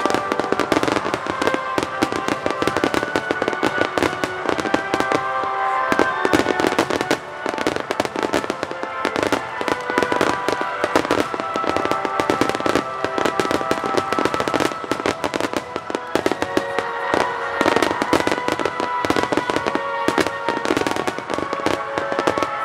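Continuous barrage of aerial firework bursts, rapid bangs and crackling packed closely together, with music playing underneath.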